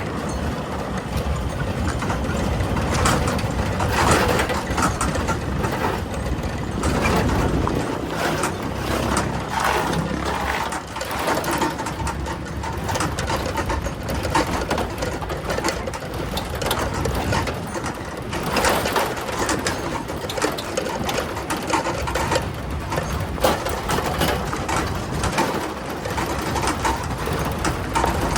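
A small engine running steadily, with an uneven, rattly pulse.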